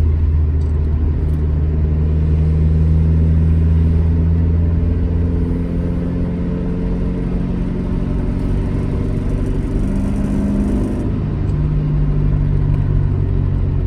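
Alfa Romeo GT1300 Junior's twin-cam four-cylinder engine pulling steadily under load, heard from inside the cabin. Its note climbs slowly, then drops about eleven seconds in. A bright rattle from a new, not quite correctly fitted gear lever rides along with it.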